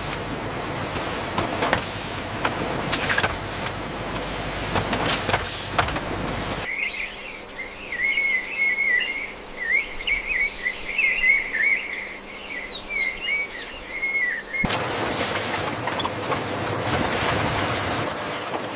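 A steady, even noise with no clear pitch, cut off abruptly about a third of the way in by birds chirping in quick, high twittering phrases. After about eight seconds the birdsong cuts off just as abruptly and the noise returns.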